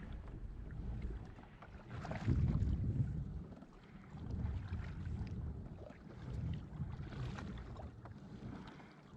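Water sloshing and splashing around a kayak, in swells about every two seconds, with wind rumbling on the microphone.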